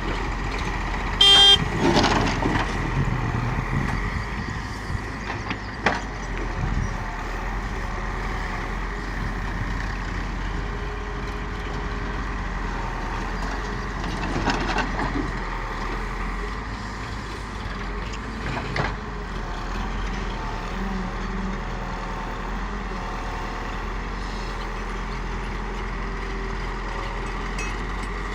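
Heavy vehicle engine running steadily at idle, with a few short knocks and clanks.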